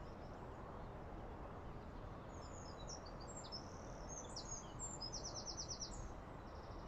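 A small songbird singing over a steady outdoor background hiss: a string of high, quick chirps from about two seconds in, then a fast trill of about eight even notes a little after five seconds, with a fainter trill near the end.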